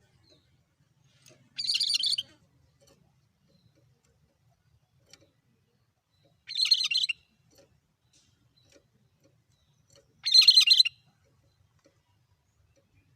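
Cucak kerinci songbird giving a short, rapid call three times, about four seconds apart, each one the same monotone burst.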